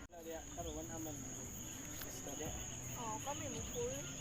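Insects singing in one steady high-pitched drone, with faint voices talking in the background.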